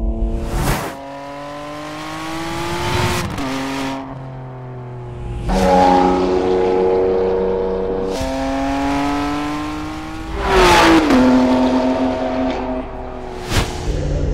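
Ferrari 599 GTB's V12 engine revving hard under full throttle. Its note climbs and then drops back sharply several times as it shifts gears.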